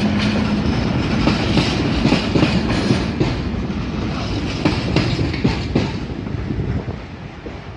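A train passing close by, its wheels clacking rhythmically over the rail joints over a steady rumble, fading away near the end.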